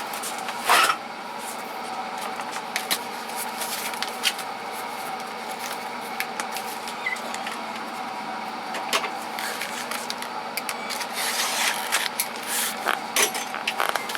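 Metal sockets and hand tools clinking and knocking now and then as they are handled and sorted, over a steady background hum.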